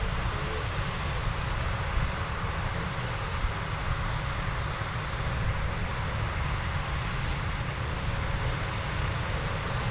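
Heavy farm machinery running steadily, with wind rumbling on the microphone.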